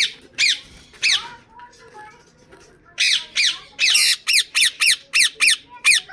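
Indian ringneck parakeet squawking: three short harsh calls, each falling in pitch, then after a pause of about two seconds a fast run of about ten more.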